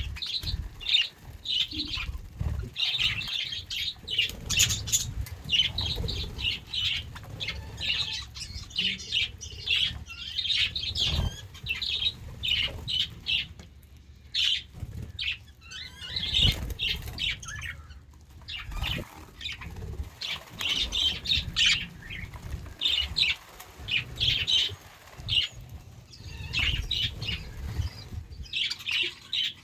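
A flock of budgerigars chirping and chattering in fast, overlapping short calls, with brief lulls and some low thuds mixed in.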